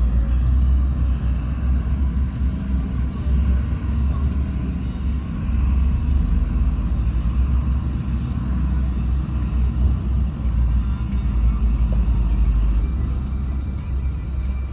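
Diesel engine of heavy earthmoving machinery, a bulldozer or dump truck, running with a steady low rumble.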